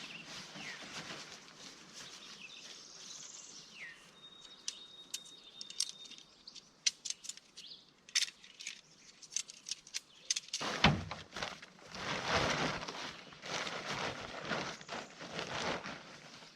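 Birds chirping, one holding a steady whistle for a couple of seconds, followed by a quick run of sharp clicks and then loud rustling, handling noise close to the microphone.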